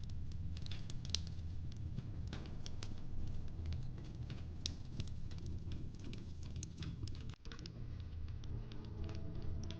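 Wood fire crackling: irregular sharp pops and snaps over a low steady rumble, with a brief dropout about seven seconds in.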